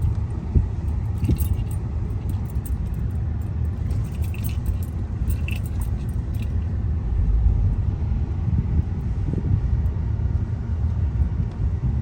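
Inside a moving car, a steady low rumble of tyres and suspension on an uneven road, with small jingling rattles in the cabin over the first half.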